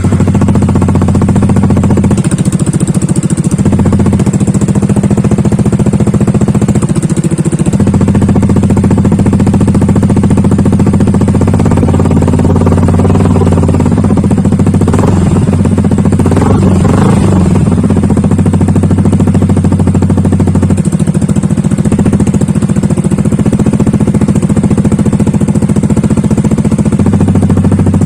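A Yamaha NMAX 155's single-cylinder engine idling through an aftermarket Akrapovic-style exhaust with no dB killer fitted, a loud deep note. About halfway through the throttle is blipped briefly a couple of times, and the pitch rises and falls each time.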